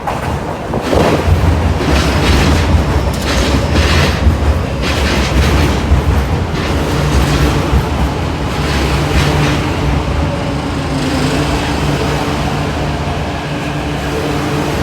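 Q train running on the rails, its wheels clattering over rail joints for the first several seconds. It then settles into a steady low hum with a few held tones.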